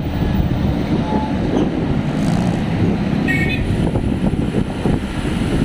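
Steady rushing road noise while riding a bicycle along a city road with motor traffic, and a brief high-pitched tone about three seconds in.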